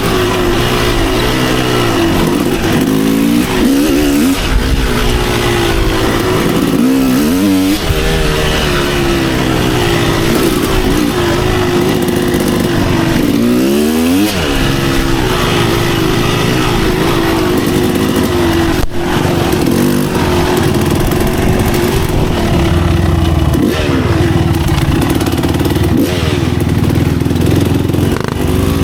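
Kawasaki KX250 dirt bike engine under hard riding, its pitch rising and falling again and again as the throttle is opened and closed through the gears. One sharp knock stands out about two-thirds of the way through.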